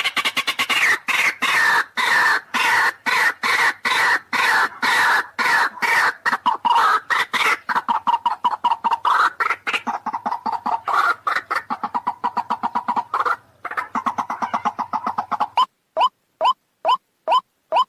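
White-breasted waterhen (ruak-ruak) calls from a lure recording: a long, fast run of harsh repeated notes, about three a second. Near the end it changes to clean, evenly spaced short rising notes, about two a second.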